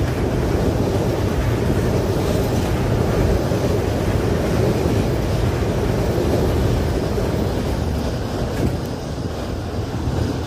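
Container freight train's flat wagons rolling past on the rails in a steady rumble. The rumble fades over the last few seconds as the end of the train goes by.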